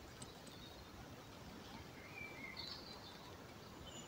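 Faint woodland ambience with a few brief, high bird chirps about halfway through and shortly after.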